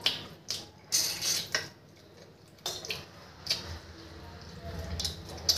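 Close-up eating sounds: a man chewing a mouthful of roti and chicken curry, with a string of sharp mouth clicks and smacks and a longer wet smacking patch about a second in.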